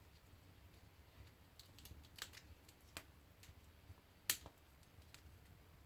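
Wood fire in a firebox crackling: a few sharp, separate pops and clicks over a faint low hum, the loudest about four seconds in.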